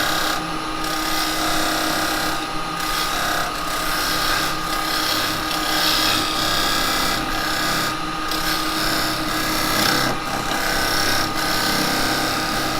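Wood lathe running with a steady motor whine while a square carbide cutter scrapes a tenon into a spinning cherry bowl. The scraping noise comes and goes in short passes, briefly stopping several times as the cutter is lifted off.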